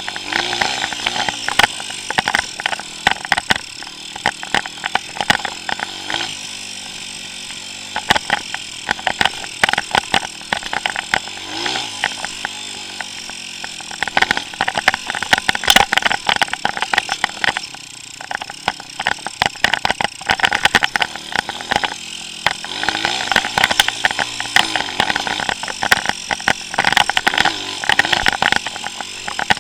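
140cc pit bike's single-cylinder four-stroke engine revving up and down again and again as it is ridden, with frequent sharp clicks and knocks over it.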